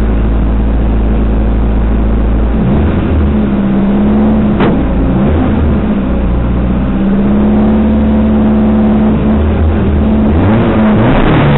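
Race car's engine heard from inside the cabin, running at a fast idle with the revs rising and falling a few times while the car stands still, and a sharp click about four and a half seconds in.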